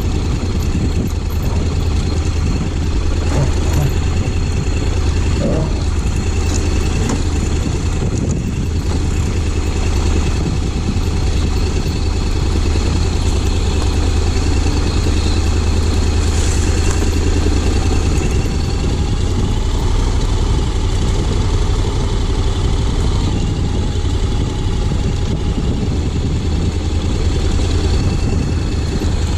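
Honda X-ADV 750's parallel-twin engine running steadily at low revs, a constant deep drone that hardly changes in pitch.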